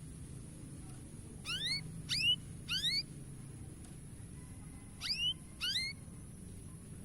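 Canary chirping: five short, sharply rising calls, three in quick succession from about a second and a half in, then two more about five seconds in, over a faint steady hiss.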